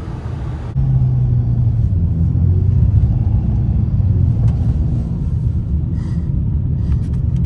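BMW 335i's turbocharged straight-six and tyres on the move: a steady low rumble that steps up louder about a second in and then holds.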